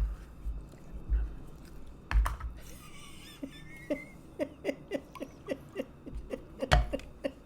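A few low knocks, then a regular run of short glugs of beer, about three a second, for several seconds.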